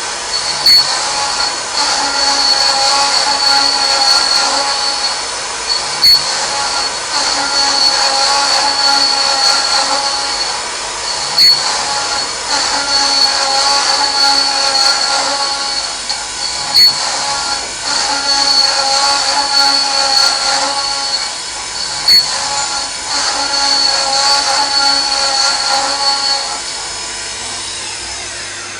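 CNC machining center running: a steady high spindle whine with cutting noise, punctuated by a sharp tick about every five seconds. The whine drops away near the end.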